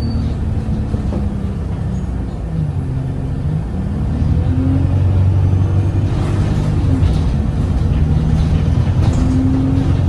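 Alexander Dennis Enviro 200 bus's Cummins ISBe diesel engine and Voith automatic gearbox heard from inside the bus: the engine note drops, then climbs and gets louder about four seconds in as the bus pulls on, with a higher whining tone coming and going above it.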